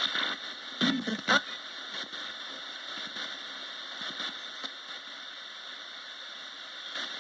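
Roberts radio hissing steadily with static, with a couple of short crackly bursts about a second in.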